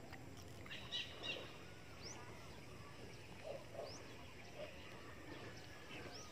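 Faint outdoor ambience with scattered bird chirps: a couple of louder chirps about a second in, then a few quick rising whistles spread through the rest.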